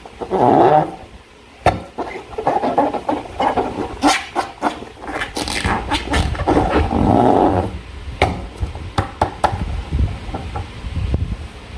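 Slime being squeezed and worked by hand, with squelching and many sharp sticky clicks.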